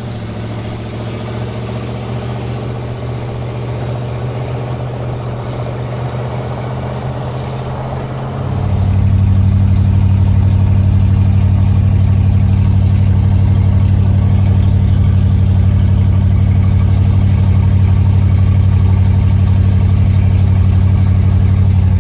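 1970 Cadillac Coupe de Ville's 472 V8 running steadily as the car is driven. About eight and a half seconds in the sound turns abruptly louder with a stronger, deeper hum, then holds steady.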